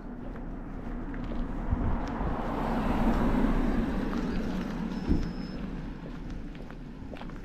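A vehicle passing by: its noise swells to a peak about halfway through and then fades away.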